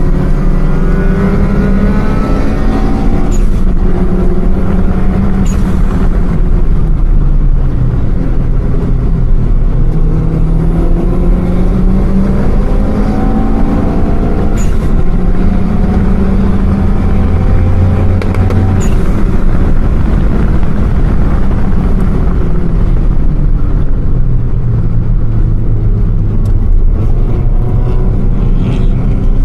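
Car engines revving over and over, the pitch climbing and dropping back, with a few short sharp cracks along the way.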